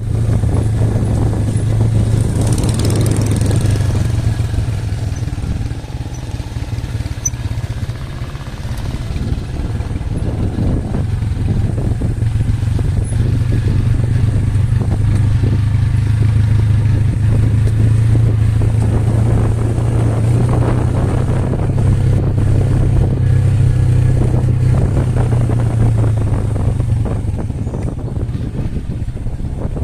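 Motorcycle engine running steadily under way, with a constant low hum; it eases off a little about six to eight seconds in.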